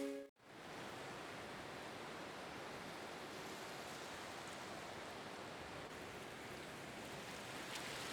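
Steady, even rush of flowing water, starting just after background music cuts off and a brief gap.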